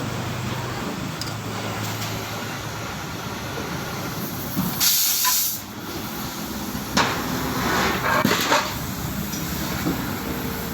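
Steady workshop noise with a loud, short hiss of air or spray about five seconds in, followed by shorter hisses around seven and eight seconds in.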